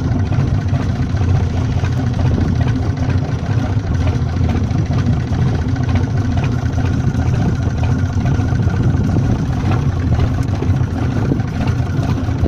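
A fishing boat's engine running steadily at a constant low pitch.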